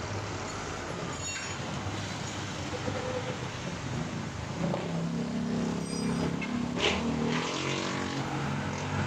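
Road traffic noise with a vehicle engine running. A low hum from the engine grows stronger from about five seconds in.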